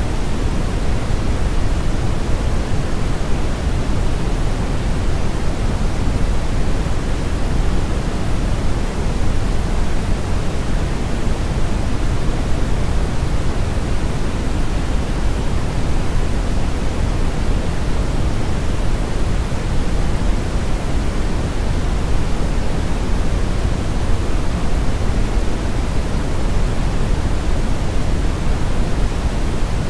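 Brown noise: a steady, even rushing hiss weighted heavily toward the low end, with no changes or events.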